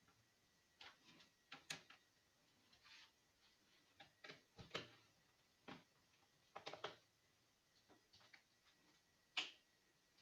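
Scattered light clicks and taps of small hard objects, irregular and faint, with the sharpest click near the end.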